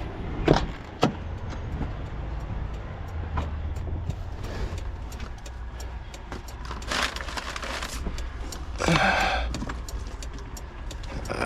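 Steady low rumble of an idling vehicle engine, with scattered sharp clicks and knocks and two brief noisy swells about 7 and 9 seconds in.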